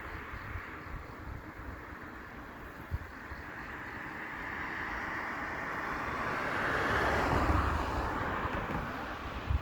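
A vehicle passing by: its road noise swells gradually, peaks about seven and a half seconds in, then fades, over low thumps of the camera being handled.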